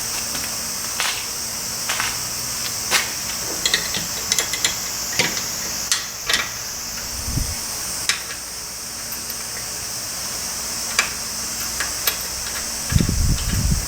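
Scattered sharp metallic clinks and taps of hand tools and parts being handled, over a steady high hiss, with a few dull thumps near the end.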